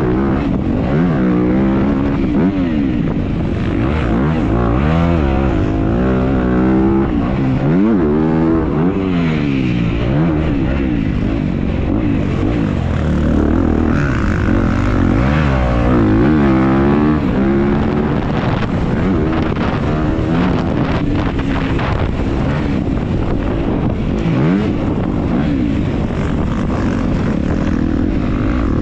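Dirt bike engine racing, its pitch repeatedly climbing and dropping as the throttle is worked through the gears, heard up close from the bike.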